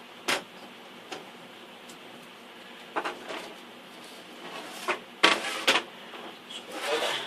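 A screen door frame being handled as its rubber gasket is pulled out of the channel: a few scattered sharp clicks and knocks, with a short stretch of rubbing and rustling near the end.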